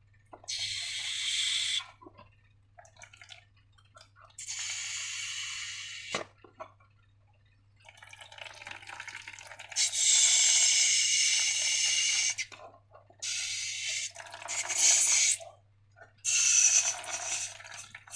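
Wet, liquid-sounding bursts of slime being squeezed and poured out of a balloon, five spurts of one to three seconds with short quiet gaps between them.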